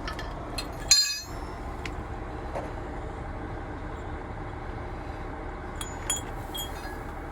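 Truck engine idling steadily, with a sharp metallic clink about a second in and a few lighter clinks near the end.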